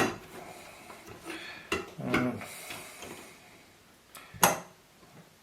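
Several sharp clicks and knocks from metal parts of a knife-sharpening setup being loosened and shifted by hand to set the angle.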